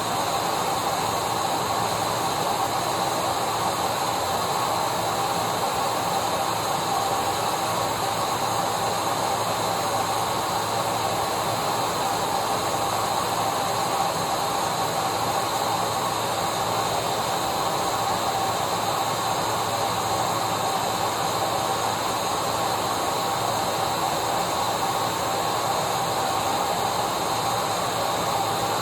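Vacuum cleaner motor running steadily: an even airy hiss with a constant whine, unchanging in pitch and loudness.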